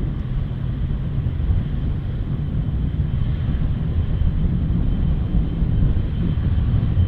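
Boeing 777-300ER's GE90 jet engines at takeoff power: a loud, steady, deep rumble, with a faint high whine from about halfway through.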